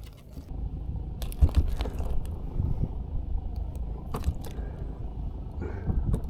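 Low rumble with scattered knocks, clicks and scrapes from fishing gear being handled while a small mackerel is reeled in; the sharpest knock comes about a second and a half in.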